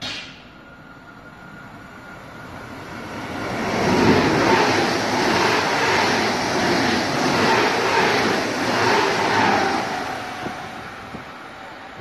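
ICE high-speed train passing through the station at speed: a rush of air and wheel noise that swells over a few seconds, stays loud for about six seconds and then fades as it goes away.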